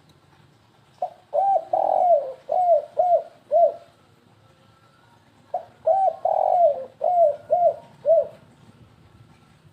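Spotted dove (tekukur) cooing in the stuttering 'kuk 3' song used as a lure call: two phrases of about six short rising-and-falling coos, each with a longer, louder coo near its start, the second phrase beginning about two seconds after the first ends.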